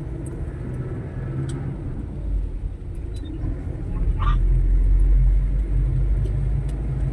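Low motor-vehicle rumble that swells from about four seconds in and is loudest around the five-second mark, with a brief higher chirp just before the swell.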